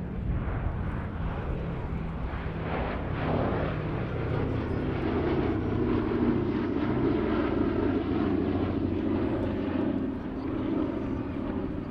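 Boeing B-17G Flying Fortress in flight, its four Wright R-1820 Cyclone radial engines running with a steady drone that grows fuller about four seconds in.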